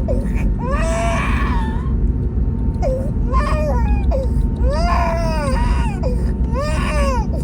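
A baby crying in about four rising-and-falling wails over the steady low rumble of an airliner cabin.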